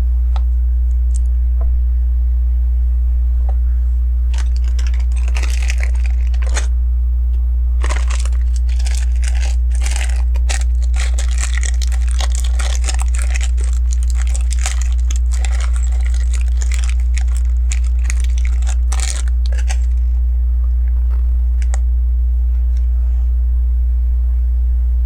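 Plastic LEGO pieces being sorted and handled: dense clicking, clattering and rustling from about four seconds in until about twenty seconds, sparser at the edges. Under it sits a steady loud low electrical hum.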